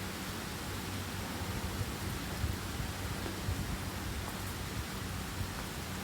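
Steady rain falling, an even hiss with no breaks, over a faint low hum.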